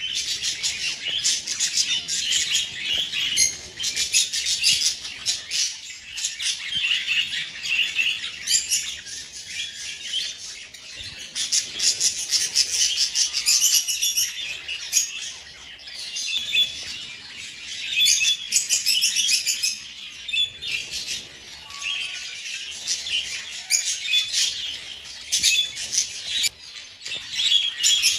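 A flock of budgies chattering continuously, a dense mix of quick chirps and squawks with sharp clicks throughout.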